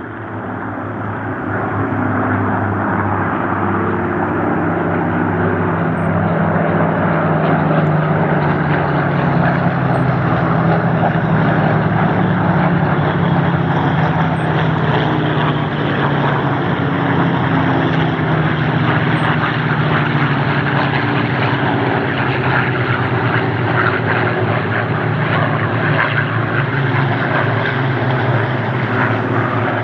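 Several Spitfires flying past together, their V12 piston engines heard as one steady mass of overlapping engine tones. The pitch drifts slowly lower through the middle of the pass.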